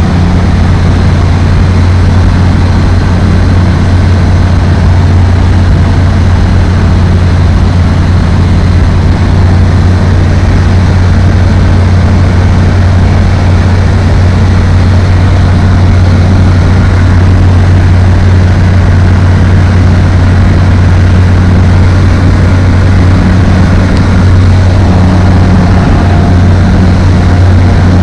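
Apollo Fox ultralight aircraft's engine and propeller running steadily in flight: a loud, even, low drone that holds the same pitch throughout.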